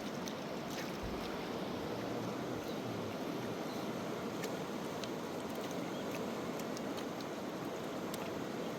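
Steady rush of flowing river water, with faint scattered ticks of water over stones.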